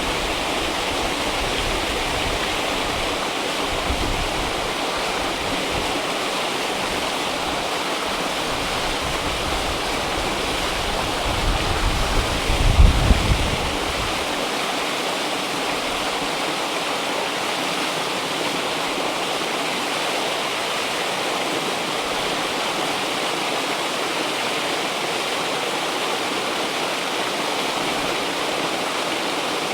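River water flowing steadily with an even rushing sound. Around twelve seconds in, a brief low rumble rises and fades over about two seconds.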